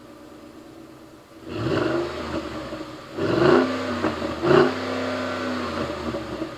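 Ford F-150's 5.0L V8 through a Corsa dB Performance stainless cat-back exhaust, set to the Sport sound level. It idles, then is revved: a first rise, two quick sharp throttle blips, then held at a steady higher speed before settling near the end.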